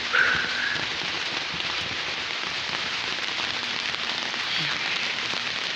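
Steady rain falling, an even hiss throughout. A short high-pitched squeak sounds about a quarter second in.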